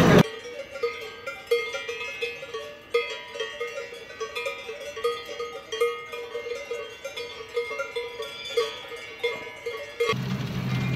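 Several cowbells clanking irregularly, overlapping strikes of different pitches, each ringing briefly.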